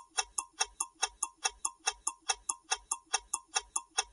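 Clock-ticking sound effect of a quiz countdown timer: quick, even ticks, about five a second, in a tick-tock alternation.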